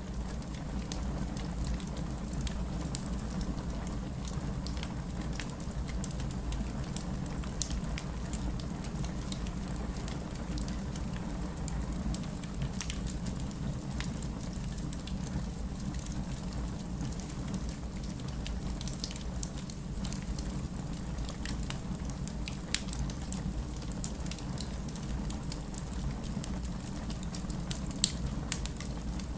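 Wood fire burning in a fireplace: a steady low rumble of flames with scattered sharp crackles and pops, and one louder pop near the end.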